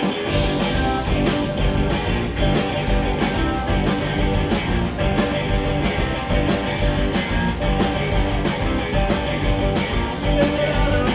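Live rock band playing an instrumental passage, with electric guitar, bass and drums keeping a steady beat of cymbal hits. The full band comes back in at the start after a brief pause.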